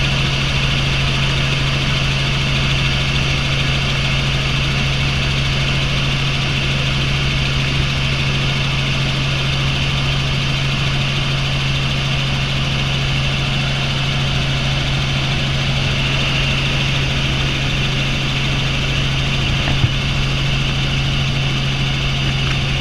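Helicopter in flight, heard from inside the cabin: a steady drone of engine and rotors with a constant low hum and a high turbine whine, unchanging throughout.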